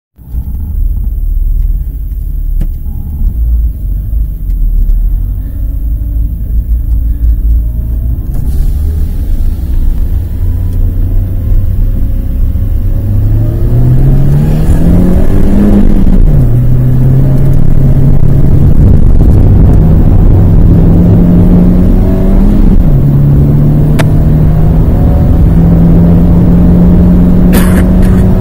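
Renault Twingo's 1.2-litre four-cylinder engine heard from inside the cabin: a low rumble at walking pace, then hard acceleration. The pitch climbs, drops at an upshift about sixteen seconds in, climbs again and drops at a second upshift about 23 seconds in, then keeps rising.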